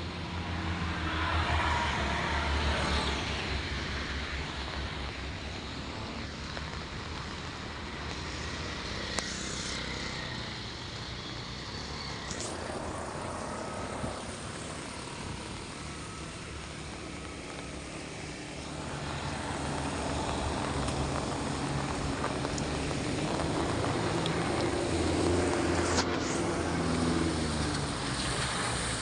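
Road traffic: vehicle engines running and passing over a steady noise haze, swelling louder twice as vehicles go by.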